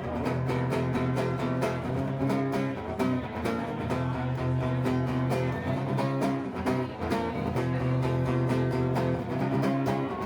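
Live band playing an instrumental passage: guitar chords over a steady rhythm, with no singing.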